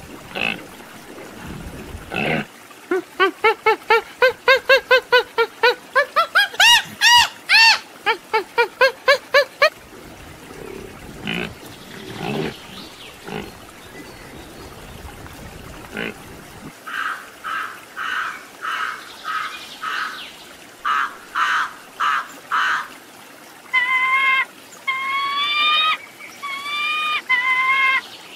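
A series of animal calls one after another: a fast run of about twenty short squealing calls that climb in pitch midway, then scattered snorts and breaths, then a hawk's repeated rising screams near the end.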